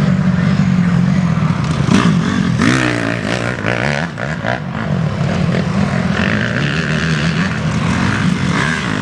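Several motocross dirt bikes racing, their engines revving up and down as the riders accelerate and shift, with rising pitch sweeps about two to three seconds in.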